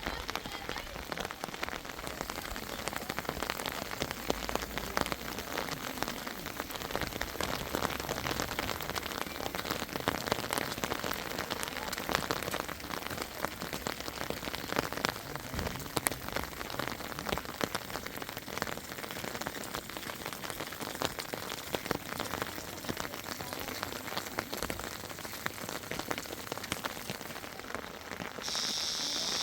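Steady rain falling, with dense patter of drops striking a surface. Near the end a narrow high hiss sets in.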